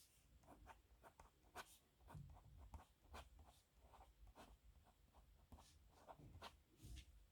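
Faint scratching of a pen nib on paper in short, irregular strokes, several a second, as letters are written by hand.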